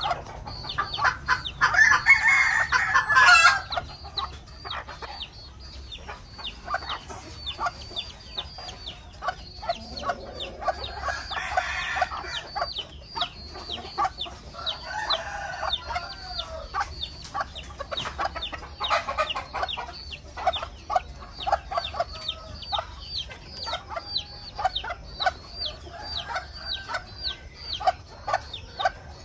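Chickens calling and clucking, with a loud drawn-out call of about two seconds near the start and shorter calls scattered later. A quick run of short sharp ticks goes on through most of it.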